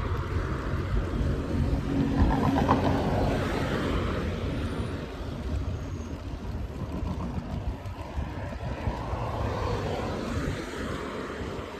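A vehicle on the move: a steady low engine hum under wind and road noise, the pitch of the hum shifting a little now and then.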